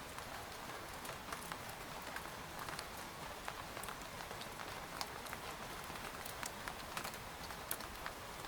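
Rain falling on a tent: a steady hiss with many scattered, irregular ticks of single drops striking the fabric.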